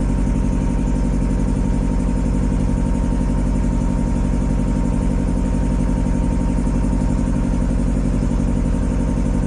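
A motorboat's engine running steadily at an even speed while the boat moves along.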